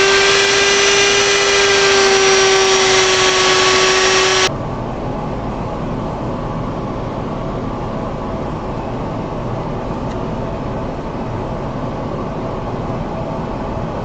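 A power tool's electric motor whines at a steady high pitch during sanding with 240-grit abrasive, then cuts off abruptly about four seconds in. A steady machine hum follows.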